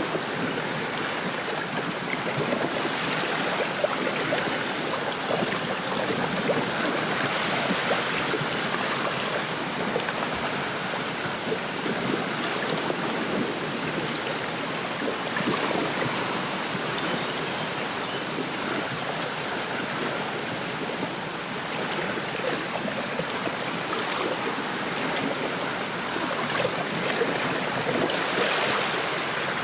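Small lake waves lapping at the shore with wind rustling through a reed bed, a steady rushing wash dotted with small splashes. The wind swells in gusts a few times, most clearly a few seconds in and near the end.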